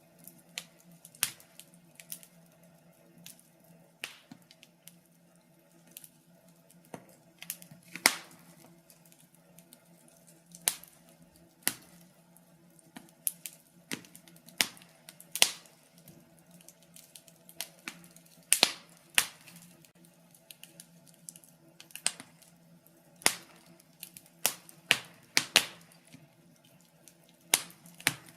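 Wood fire burning in a fireplace, crackling with irregular sharp pops and snaps, some much louder than others, over a faint steady low hum.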